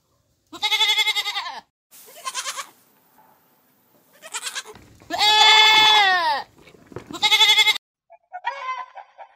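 Goats bleating: about five separate bleats, the longest and loudest about five seconds in, falling in pitch at its end. Near the end a hen clucks more quietly.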